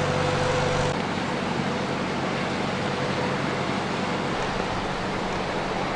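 A vehicle engine running steadily under an even hiss of noise, which eases slightly about a second in.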